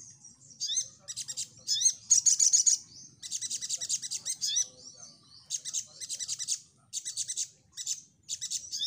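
Sogon (little spiderhunter) singing: bursts of fast, high repeated notes, each about half a second to a second long with short gaps between, mixed with quick rising whistled sweeps.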